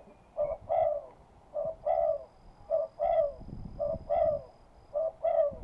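A dove cooing over and over: a short note followed by a longer falling one, about once a second.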